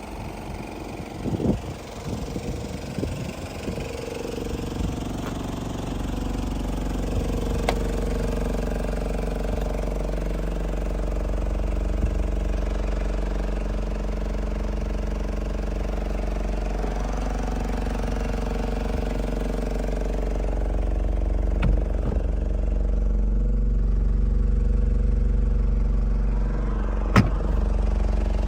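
Toyota Hilux Surf KZN130's 3.0-litre four-cylinder turbo diesel engine idling steadily, with a few irregular knocks in the first seconds and a sharp click near the end.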